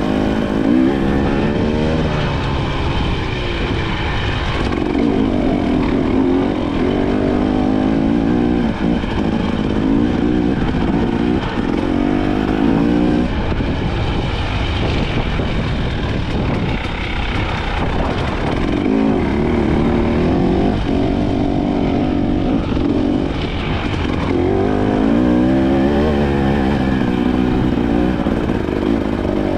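KTM 300 XC-W two-stroke single-cylinder dirt bike engine being ridden, its pitch rising and falling again and again as the throttle is opened and closed.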